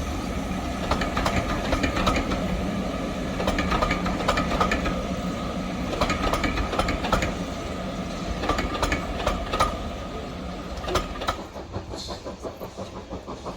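Steam-hauled train running past, its wheels clattering over the rail joints with many sharp clicks. It fades about eleven seconds in, leaving a quicker, even pulsing.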